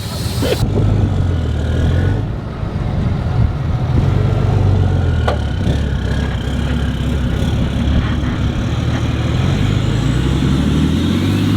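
Truck engine running, its low note wavering up and down and climbing near the end as it revs.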